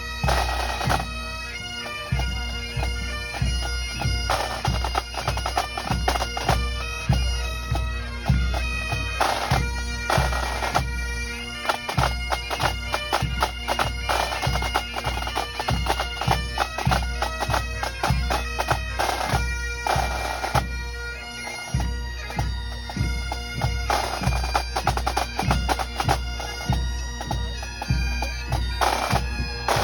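Pipe band playing: Great Highland bagpipes sounding a melody over their steady drone, with drums beating a regular rhythm underneath.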